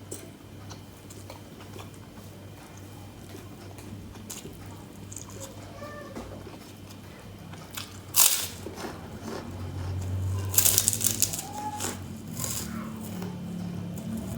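Close-up eating sounds: a sharp crunchy bite about eight seconds in, then a few seconds of loud crunching as kerupuk crackers are chewed. Before that, only faint mouth sounds.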